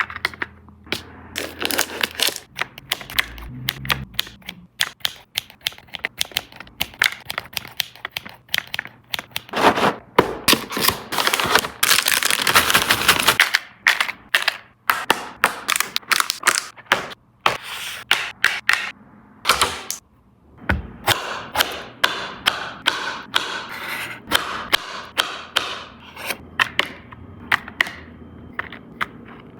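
Snacks and plastic containers being handled and packed: many sharp clicks, taps and light knocks of items and lids being set down. There are a few seconds of continuous rattling or rustling in the middle.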